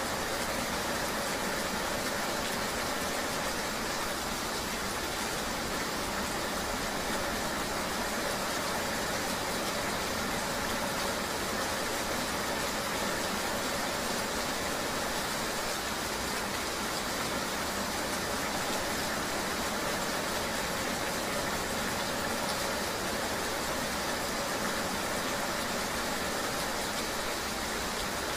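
Steady, even rushing noise of a rain ambience, with a faint constant hum underneath.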